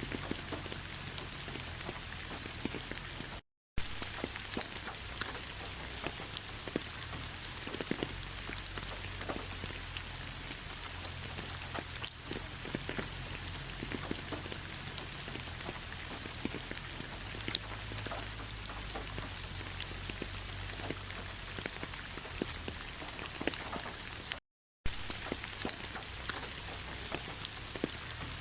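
Steady autumn rain falling on fallen leaves, a dense patter of small drop ticks. The sound cuts out to silence twice, briefly.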